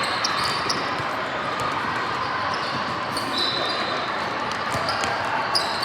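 Basketball bouncing on a gym court over a steady din of the hall, with a few short knocks.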